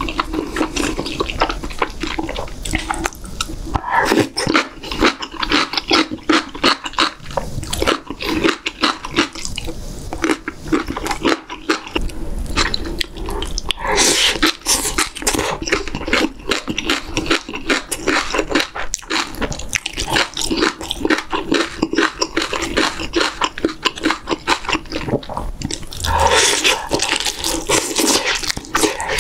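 Close-miked eating sounds: wet chewing, lip smacking and slurping of beef-rib stew and side dishes, in quick irregular clicks. Near the end the sounds grow louder as meat is pulled off a rib bone with the teeth.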